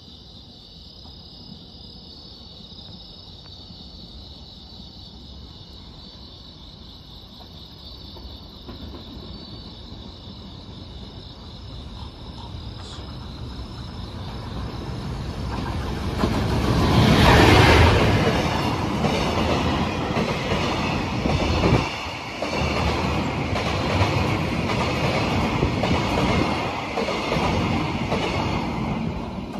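Freight train approaching, growing steadily louder until the locomotive passes about 17 seconds in. The wagons then run by with a rhythmic clickety-clack of wheels over rail joints.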